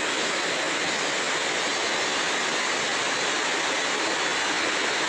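Steady rush of water from a rocky forest creek running down to a waterfall, an even hiss at constant loudness.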